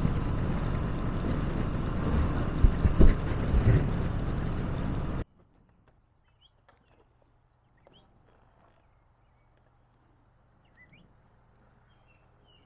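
Steady wind and road noise from a moving motorcycle, with a few louder knocks, cutting off abruptly about five seconds in. After that it is nearly silent, with a few faint bird chirps near the end.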